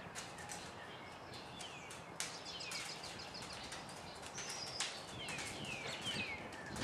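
Wild birds singing outdoors: repeated falling whistled notes and a quick run of short high chirps. Two sharp clicks come through, about two seconds in and near the end, the later one being the loudest sound.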